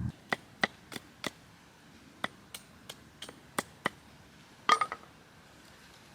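A series of sharp, irregular knocks and clicks, with a louder clatter and a brief metallic clink near the end.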